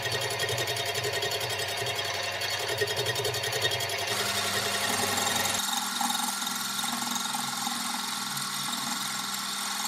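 Metal lathe running a light facing cut on a casting bolted to the faceplate. The cut vibrates a fair bit because the carriage isn't clamped. The machine sound changes about four seconds in and again a second and a half later.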